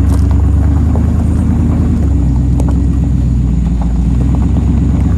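A car engine running with a loud, steady low rumble. Its lowest note drops a little about two seconds in.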